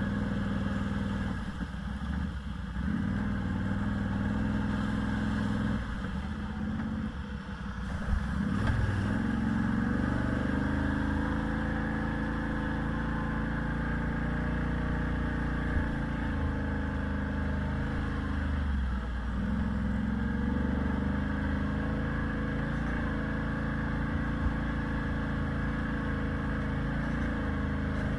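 A motor vehicle's engine running steadily, its pitch shifting briefly about a quarter of the way in and again about two-thirds of the way through.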